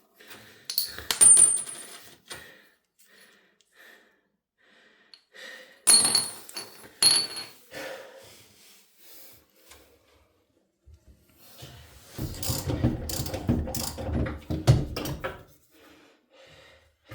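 Metal faucet mounting hardware clinking with short high rings, once about a second in and a couple of times around six to seven seconds in. This is followed by a few seconds of clattering and scraping as the parts are worked off under the sink.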